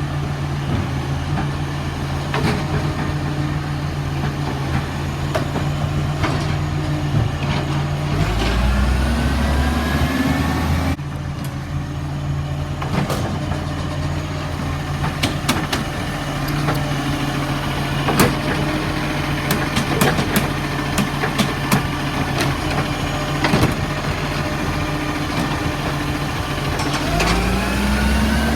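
Garbage truck's diesel engine idling, revving up with a rising pitch about eight seconds in and again near the end. In between there is a run of sharp knocks and clatter.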